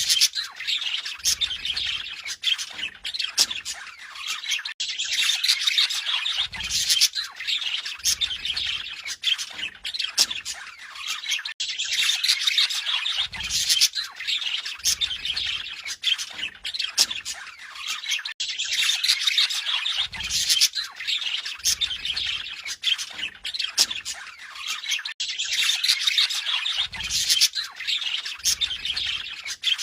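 Budgerigar warbling and chattering: a dense stream of chirps, clicks and squawks. The same stretch of chatter repeats about every seven seconds.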